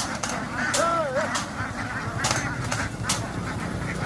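Domestic waterfowl giving one short honking call that rises and falls in pitch, with several sharp clicks or knocks scattered around it.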